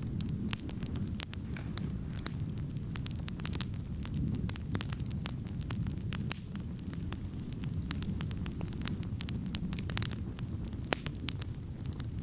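Wood campfire burning and crackling, with frequent irregular sharp pops over a steady low rumble.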